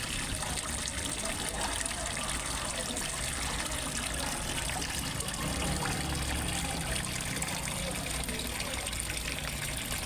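Water trickling and splashing steadily into a fish pond from a small waterfall, an even, unbroken rush.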